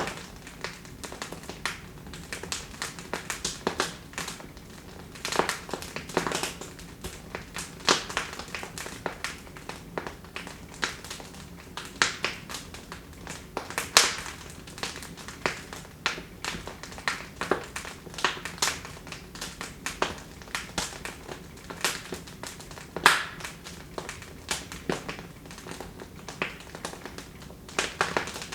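Wood fire burning in a fireplace, crackling with irregular sharp pops and snaps over a soft steady hiss; a few louder pops stand out.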